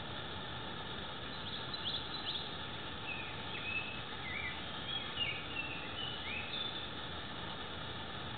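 Small birds chirping, a dozen or so short calls that slide up or down in pitch, scattered over a steady hiss.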